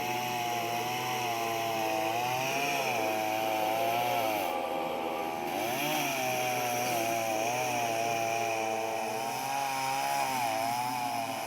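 Petrol chainsaw running hard while cutting into a spruce trunk, its engine pitch repeatedly sagging and picking back up. The saw is running low on petrol.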